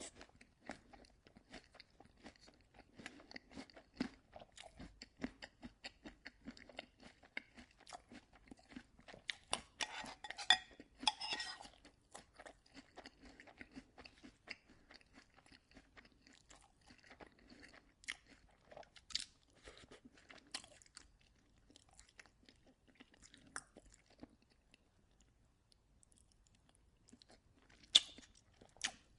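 Close-up sound of someone eating oatmeal: a steady run of small clicks and smacks of chewing. It is busiest about a third of the way in, thins out later, and has one sharp click near the end.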